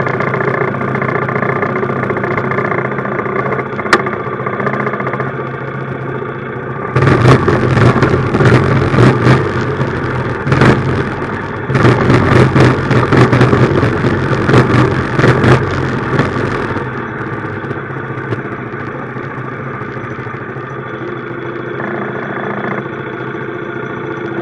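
Minibike's small engine running under way, steady at first; about seven seconds in the sound turns much louder and rougher for about ten seconds, with a brief drop in the middle, then settles back to a steadier run.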